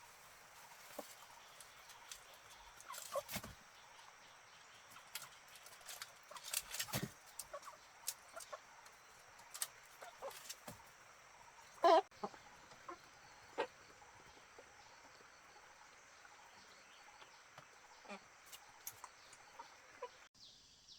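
Chickens clucking now and then, short calls and scattered small clicks, with the loudest call about twelve seconds in, over a steady high hiss that cuts off abruptly near the end.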